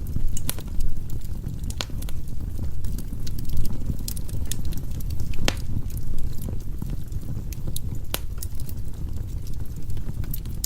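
Firewood burning in a fireplace: a steady low rumble of the flames with irregular sharp pops and crackles from the burning logs, a few louder snaps scattered through.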